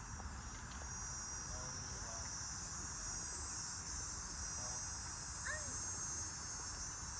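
Steady high-pitched chorus of chirring insects in open country, over a low rumble, with a few faint short chirps and distant voices.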